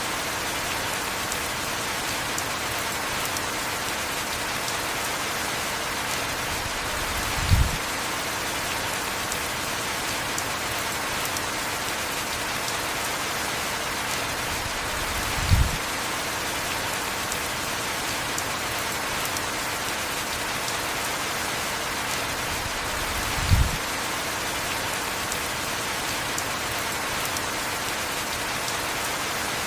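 Heavy rain falling in a steady, even hiss. A short low thump recurs three times, evenly spaced about eight seconds apart.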